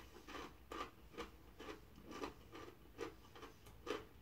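Faint crunching of dried, wasabi-coated green peas being chewed, about two crunches a second.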